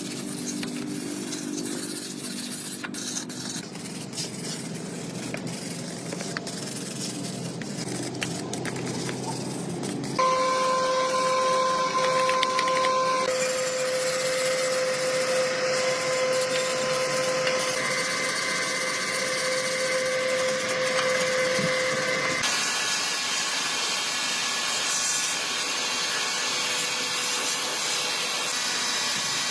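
Workshop power tools heard in several abruptly cut segments. In the middle a motor runs with a steady high whine, with hissing noise around it.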